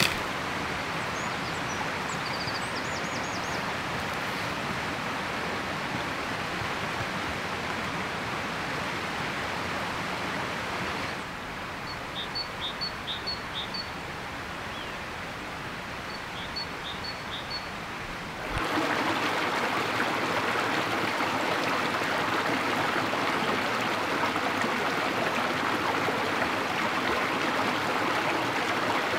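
Running water of a forest stream, a steady rushing that changes level abruptly twice. In a quieter middle stretch, two short runs of high chirps sound over it.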